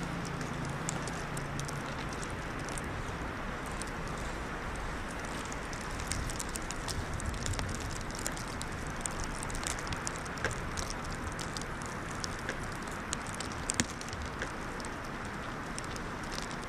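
Steady wind noise rushing over the microphone in a winter storm, with scattered faint crackles throughout.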